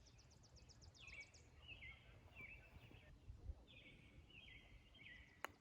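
Faint outdoor ambience with a songbird singing two warbled phrases. A high, fast ticking trill runs through the first second or so, and a single sharp click sounds just before the end.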